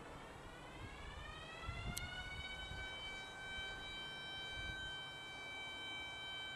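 Outdoor warning siren winding up, its pitch rising for about three seconds and then holding a steady tone.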